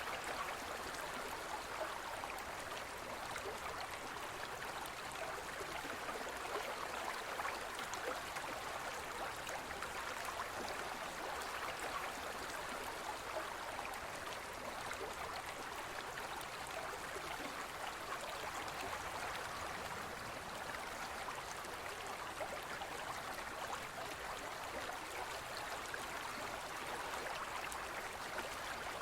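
Gentle forest stream flowing over stones: a steady, even rush of water with fine trickling and bubbling throughout.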